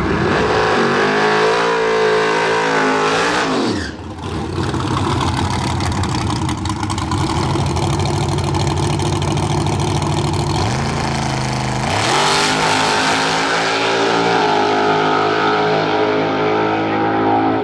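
Drag racing car engines at high revs: the pitch climbs, falls sharply about four seconds in, holds high, climbs again around eleven seconds in, then runs steady.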